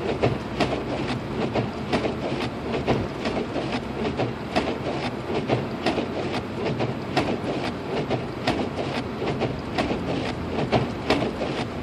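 Turn-signal indicator ticking rhythmically inside the cabin of a 2006 Lexus IS250 AWD, over the steady rumble of the car driving on a snow-covered road.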